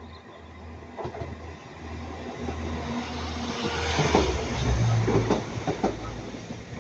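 Northern Class 195 diesel multiple unit approaching and passing, its low engine hum growing steadily louder, with wheels clacking over rail joints from about four seconds in.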